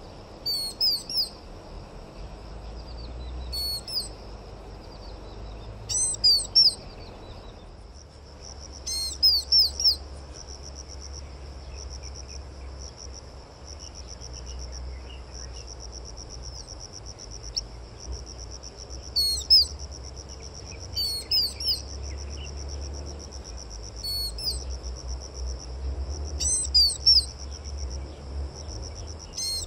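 A songbird singing short phrases of three or four quick, falling high notes, repeated every two or three seconds with a long pause in the middle, over a steady high-pitched insect trill.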